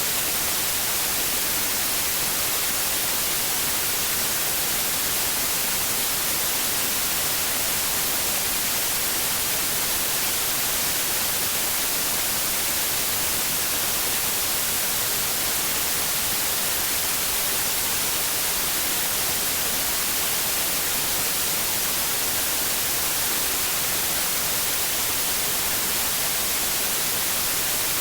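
White noise: a steady, even hiss with most of its energy in the high frequencies, unchanging throughout.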